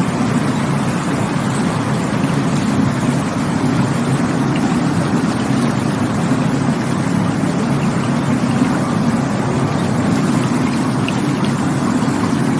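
Rushing water of a stream or waterfall, a steady, unbroken full rush with a deep low rumble.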